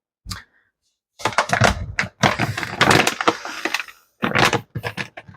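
Kitchen utensil and container handling: a dense run of clattering and scraping taps starting about a second in and lasting about three seconds, then a shorter cluster.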